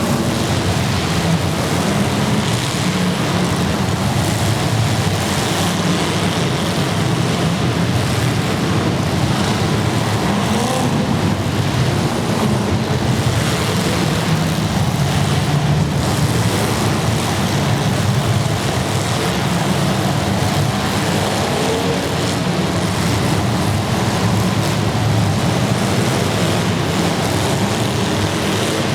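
Several unmuffled demolition derby car engines running loudly together, with occasional short revs.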